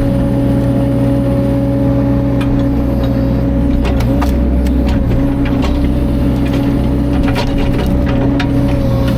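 Caterpillar 305.5 mini excavator's diesel engine running steadily at working speed, with a few sharp clicks and knocks over it.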